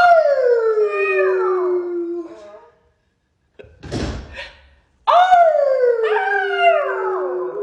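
A dog howling twice, each howl about two and a half seconds long, starting high and sliding down to a steady lower pitch. A short noise sounds between the two howls.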